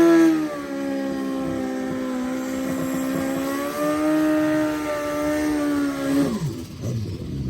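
A drag-racing vehicle's engine at full throttle down the strip, holding a high, fairly steady note after a brief dip in pitch about half a second in. Near the end the pitch falls steeply and the sound fades away.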